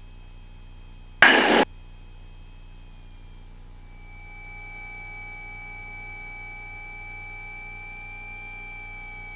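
Cessna 172S engine run-up, heard through the cockpit intercom as a steady high electrical whine that shifts pitch and grows a little louder about four seconds in as the engine speeds up. A short hiss sounds about a second in.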